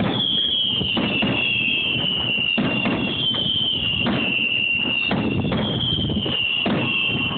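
A dense, continuous barrage of fireworks, many bangs overlapping, over a high wavering whistle that slides down in pitch again and again.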